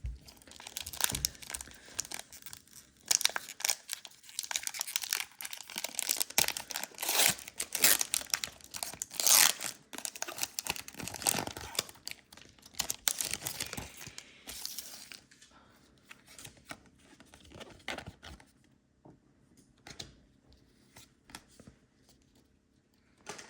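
Foil booster pack wrappers being torn open and crinkled, a dense run of crackly tearing and rustling that thins out after about fifteen seconds and dies away over the last few.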